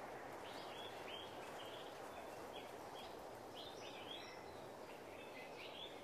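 Faint, repeated short high chirps from a small bird, coming irregularly a few to the second, over a steady low hiss of ambient noise.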